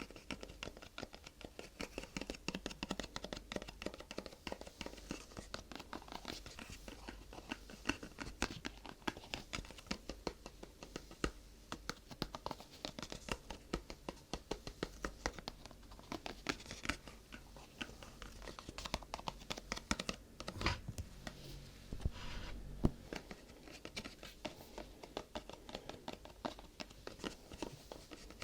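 Close-up ASMR handling sounds: fingers tapping and scratching objects in a dense, rapid patter, with two louder knocks a little past the middle.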